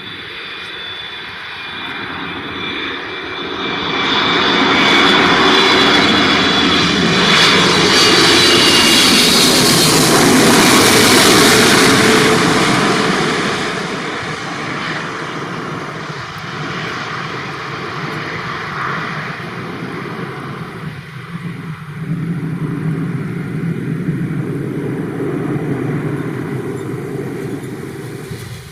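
Jet engines of a FedEx Boeing 777F freighter, two GE90 turbofans, as it flies low over on final approach to land. The noise swells to a peak with a high whine in it, then falls back to a steadier, lower rumble as the plane passes.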